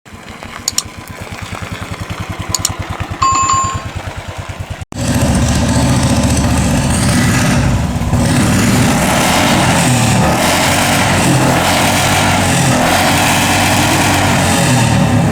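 Motorcycle engine ticking over with an even, rapid beat, with two clicks and a short beep about three seconds in. After an abrupt cut near five seconds, a louder run of engine noise mixed with wind rush, as when riding.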